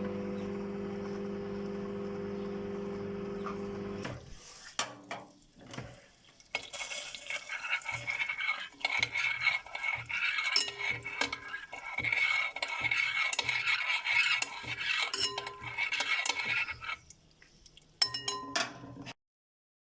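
A steady hum for about four seconds, then a utensil clinking and scraping against a dish in quick, irregular strokes, as when stirring, with a short last burst of clinks near the end.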